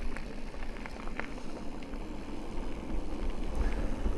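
Electric mountain bike riding along a trail: a steady low rumble of wind and tyres, with scattered light clicks and rattles from the bike. The rumble grows louder near the end.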